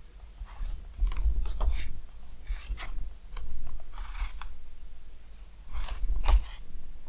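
Irregular crunching and rustling handling noises with sharp clicks, and low thuds about a second in and again near the end.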